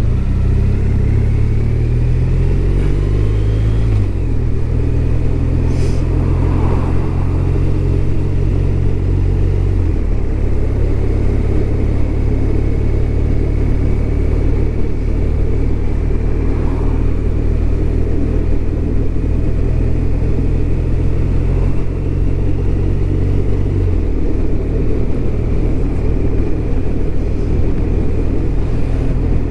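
BMW R1200RT's boxer-twin engine under way. It rises in revs for the first few seconds, then drops in pitch in steps about 4, 10 and 24 seconds in, running steadily between them.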